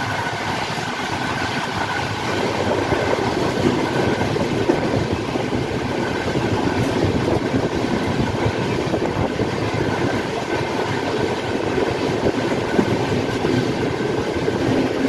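Two express trains running side by side at speed: a steady, loud rumble and clatter of steel wheels on the rails with wind rush, heard from the open door of one coach as the other train's coaches slide past close alongside.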